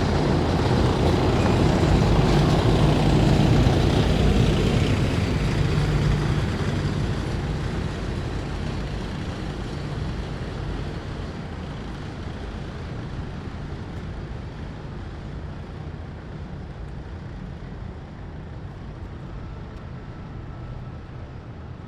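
A heavy military vehicle's engine rumbling loudly as it drives past, then fading steadily as it moves away after about six seconds.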